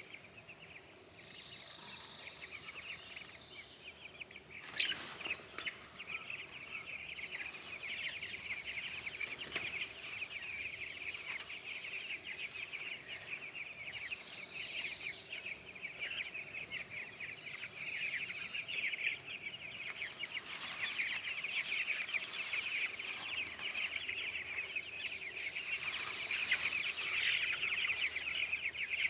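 A flock of meat chickens in a chicken tractor, many birds calling at once in a continuous busy chatter that grows gradually louder.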